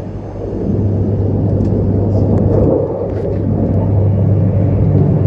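MTR Q-train metro train running, heard from inside the car: a loud, steady rumble with a constant low hum that grows louder about a second in.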